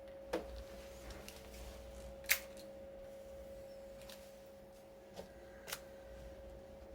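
Blower motor of a GXS12 Toyota Crown running with a steady hum. Four short sharp clicks come over it, the loudest about two seconds in.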